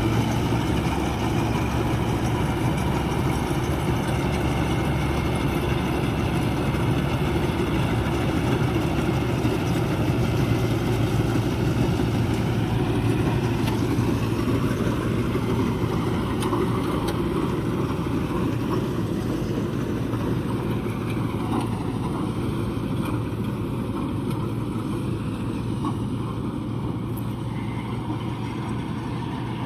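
Mahindra Novo 655 DI tractor's diesel engine running steadily, a low even drone that eases slightly in loudness over the last several seconds.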